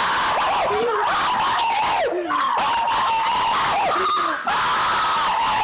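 Fireworks going off: a loud, continuous crackling hiss with a steady whistle over it and repeated whistles that swoop down in pitch.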